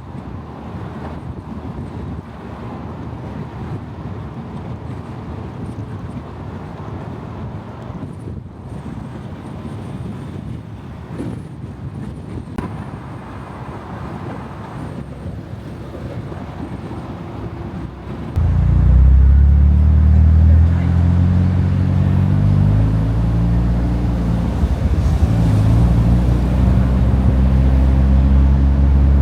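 Car running through city streets with a low rumble and road noise, then a much louder, deep, steady sports-car engine note cuts in about two-thirds of the way through, its pitch wavering slightly as the revs shift.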